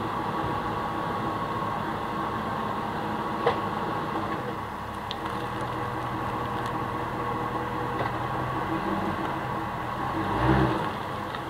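Ford 4.6-litre V8 in a Crown Victoria Police Interceptor idling steadily through its stock exhaust with high-flow catalytic converters. There is a short rev about ten seconds in.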